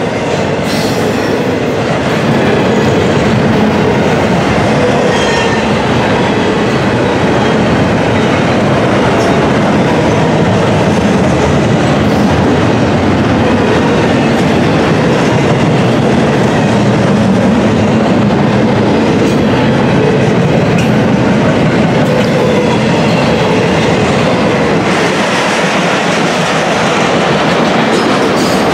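Freight cars of a passing intermodal train, double-stack container well cars, rolling by close at speed: a loud, steady rumble and clatter of steel wheels on the rails.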